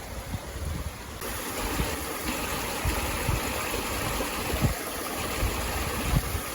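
Steady rush of surf with wind gusting on the microphone. The rush gets louder about a second in.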